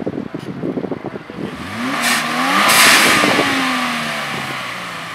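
Subaru WRX's turbocharged flat-four engine revved once. The pitch climbs quickly about two seconds in and peaks with a loud rush, then the revs fall slowly back down.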